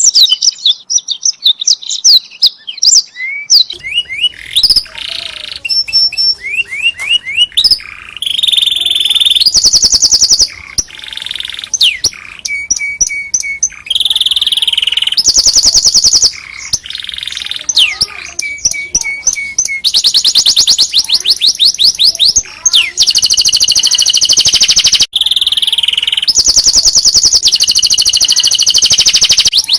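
Domestic canary singing a long, loud song of fast trills and rapidly repeated notes, with quick rising and falling whistles, broken by brief pauses.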